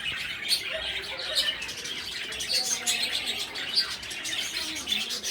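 A mixed flock of small pet birds in an aviary, chirping and chattering together in a dense, continuous stream of short calls.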